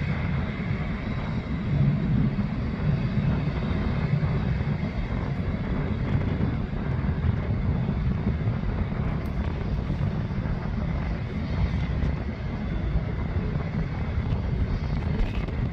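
Airbus A380 jet engines running, a steady low rumble with a faint high whine above it.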